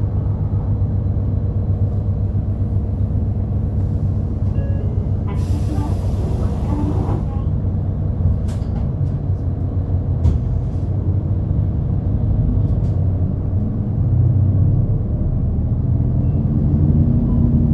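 A route bus's engine running, heard from inside the cabin. About five seconds in there is a two-second hiss of released air, and a few sharp clicks and rattles follow. Near the end the engine note rises as the bus gathers speed.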